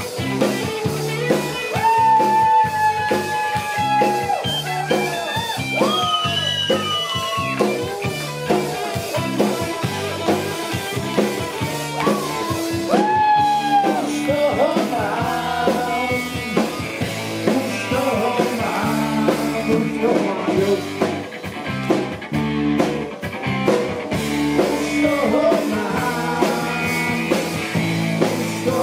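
Rock band playing live: a lead line of long held notes that bend in pitch, over a steady bass and drum rhythm.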